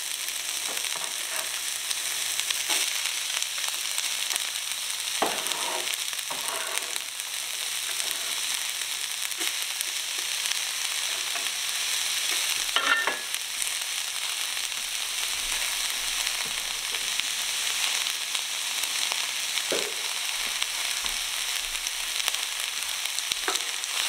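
Chopped onion sizzling steadily in hot olive oil in a pot, with a few brief knocks.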